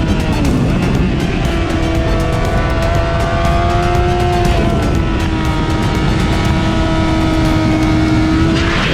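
Motorcycle engine running at a steady speed under a rush of wind, its pitch gliding down just after the start and then holding.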